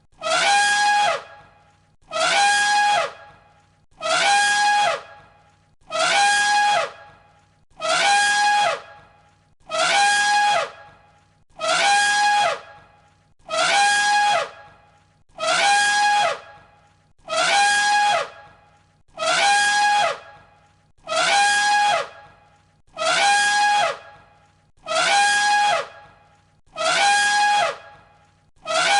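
Elephant trumpeting: the same short, high trumpet call repeated as an identical loop about every one and a half seconds, each call dropping in pitch at its end.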